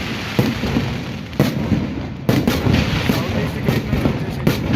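Fireworks going off: a rapid, irregular series of sharp bangs over a steady crackling din.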